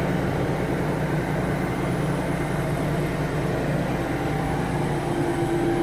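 Tractor engine running steadily under load while pulling a stump out through snatch blocks, a constant low drone with a faint higher tone coming in near the end.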